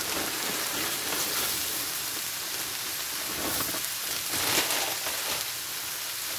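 Onions and garlic sizzling in oil in a frying pan: a steady hiss, with a brief louder flare about four and a half seconds in.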